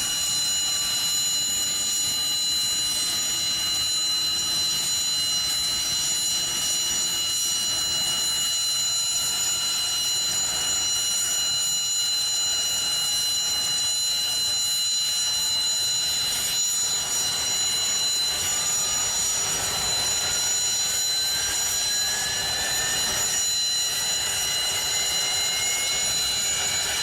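Mi-26 helicopter's two D-136 turboshaft engines running during warm-up with the main rotor turning, steady high turbine whines over a rushing noise. In the second half a further tone climbs steadily in pitch as the engines spool up. The rotor is turning fast enough that the blades no longer droop.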